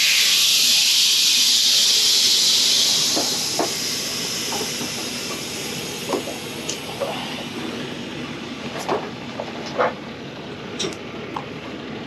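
Loud hiss of compressed air let out of a truck's air system, starting sharply and tapering off over about four seconds, followed by scattered light clicks and knocks.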